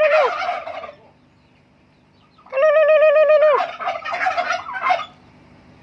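Turkeys gobbling, twice: each time a warbling, wavering call about a second long, apparently a person imitating a turkey, is followed at once by a rattling burst of gobbles. The second round comes about two and a half seconds in and its gobbling runs for over a second.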